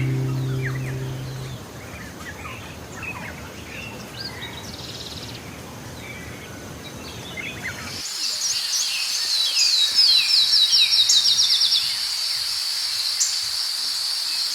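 A guitar chord dies away at the start, then birds chirp faintly. About halfway through, a steady high insect drone sets in, with a quick run of falling bird chirps over it.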